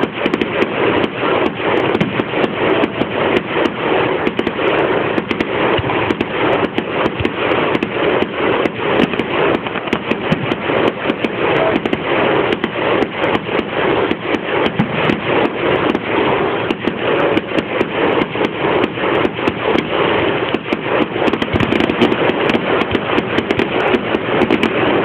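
Fireworks going off in a rapid, continuous barrage of pops and crackles, many shots a second with no let-up.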